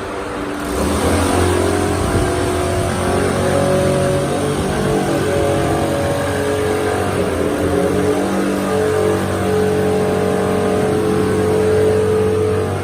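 Motorcycle engine running under load on a chassis dynamometer. It revs up about a second in and then holds at high revs, its pitch shifting up and down.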